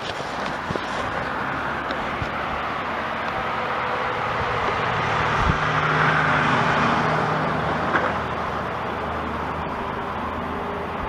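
A car passing by, its engine and road noise swelling to a peak about six seconds in and then fading.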